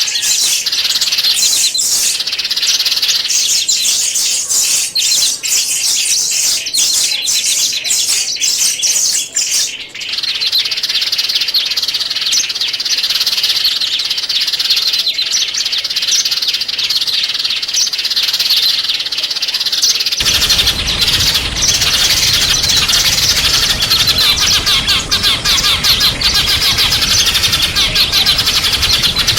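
Small songbirds singing and chirping continuously in rapid high-pitched twittering. The recording changes abruptly twice, about a third and two-thirds of the way through.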